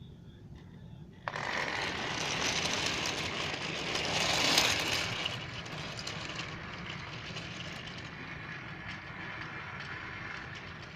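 Battery-powered toy train engine switched on about a second in, its small geared motor whirring and rattling as it runs along plastic track, loudest a few seconds in and then steadier.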